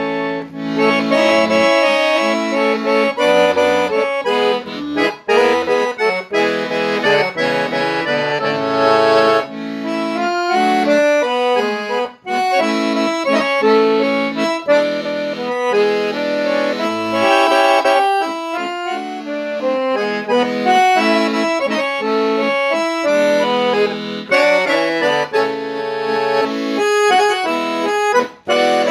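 An accordion (sanfona) plays an instrumental melody over chords and low bass notes, with short pauses between phrases.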